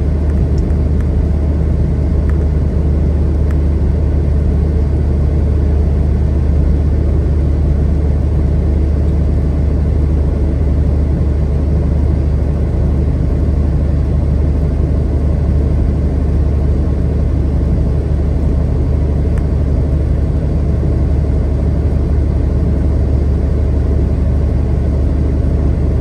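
Semi truck's diesel engine and road noise heard inside the cab while cruising on the interstate: a steady low drone.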